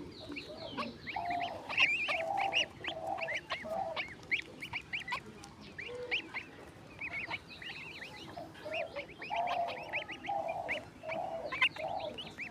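Swans calling: two bouts of four or five short honks each, one about a second in and another in the second half, over many quick, high chirping calls from other birds.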